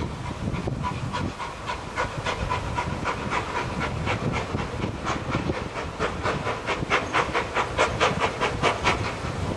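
Narrow-gauge steam tank locomotive's exhaust chuffing in an even rhythm, about three beats a second, over the running rumble of the train; the beats grow louder in the second half.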